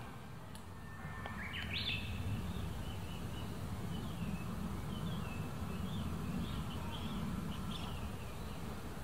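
A bird chirping: a short rising call about a second and a half in, then a run of brief chirps, over steady low background noise.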